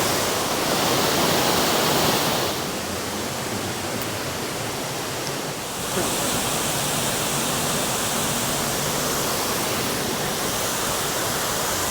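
Russell Falls waterfall: a steady rush of falling water. It drops a little in level about two and a half seconds in and comes back up at about six seconds.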